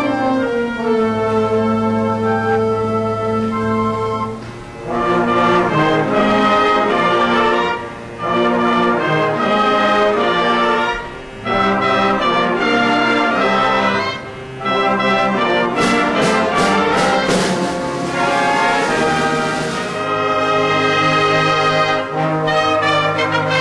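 Orchestral music led by brass, with trumpets and trombones playing sustained chords in phrases separated by short pauses, and a run of sharp percussive hits in the middle.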